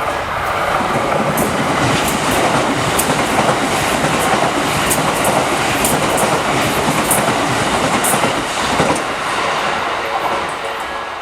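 A Tobu 70000-series electric train running through a level crossing, its wheels clacking over the rail joints. The train noise fades near the end, and the crossing's slow bell rings through it again.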